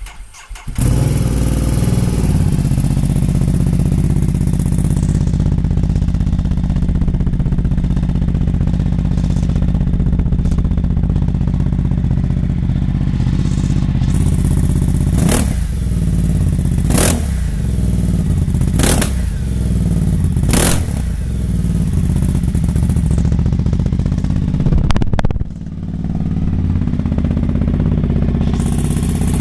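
Ducati Multistrada 1260 S's V-twin engine running loud through an aftermarket Delkevic exhaust with no baffle, its collector and catalytic converter removed. It comes in about a second in and idles unevenly. In the second half come four quick throttle blips, each rising and falling in pitch, and another blip near the end.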